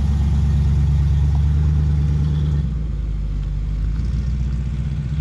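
A classic car's engine running at low speed as it drives slowly past, a steady low note that eases slightly about two and a half seconds in.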